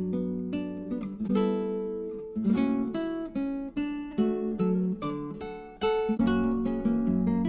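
Background music: an acoustic guitar plucking a melody, note by note, a few notes a second.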